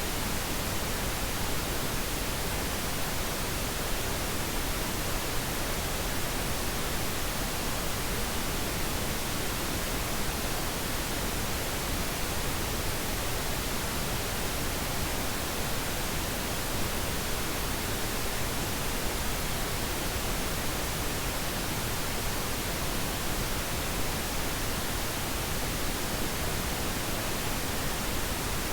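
Steady pink noise: an even, unchanging hiss spread across all pitches, meant as a sleep aid.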